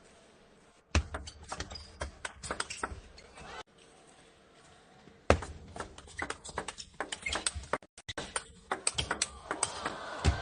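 Table tennis ball clicking sharply off rackets and the table in quick rallies. A run of hits starts about a second in and stops after a few seconds, and a second run starts near the middle.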